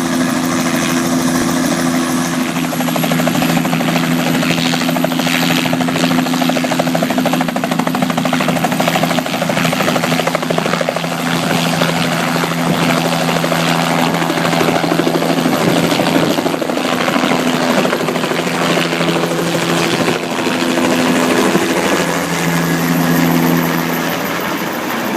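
Helicopter running: a steady engine hum with a fast, even rotor chop, the chop strongest in the middle stretch.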